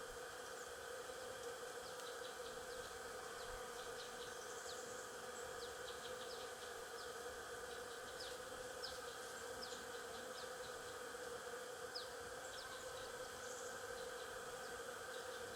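Stingless bees buzzing in a steady, even drone, with many short high chirps scattered over it.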